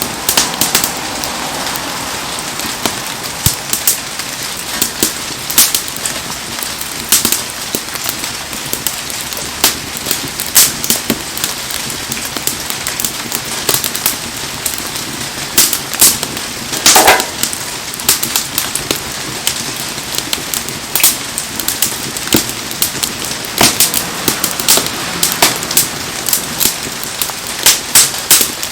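Wood bonfire crackling and popping with sharp irregular snaps over the steady hiss of heavy rain, with one louder crack a little past halfway.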